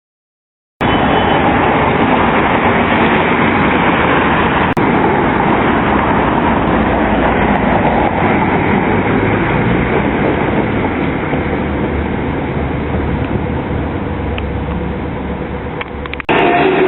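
Steady, loud vehicle rumble and road noise that starts abruptly about a second in and changes abruptly near the end at an edit.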